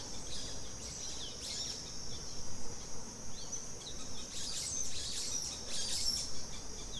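Forest ambience: a steady, high-pitched insect drone, with birds chirping over it in short clusters about a second and a half in and again from about four and a half to six seconds.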